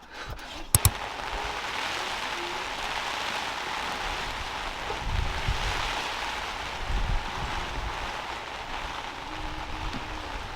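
Steady rain falling. Two sharp clicks come about a second in.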